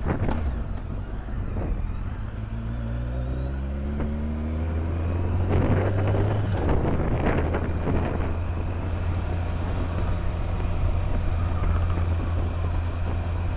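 BMW K1200S inline-four engine heard from the rider's helmet microphone, rising in pitch as the bike accelerates over the first few seconds, then running at a steady cruise. A louder rush of noise comes around the middle.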